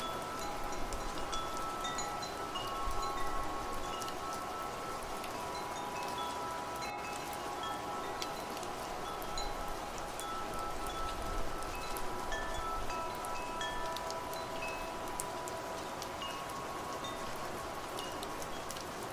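Wind chimes ringing, several metal tones sounding and overlapping, some held long and others short and higher, over a steady hiss of rain with scattered drop ticks.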